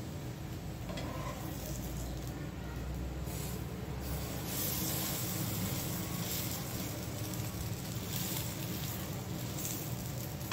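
Stuffed paneer taco shells sizzling in oil on a tawa (flat griddle) as they roast, a steady frying hiss that grows a little louder about halfway through.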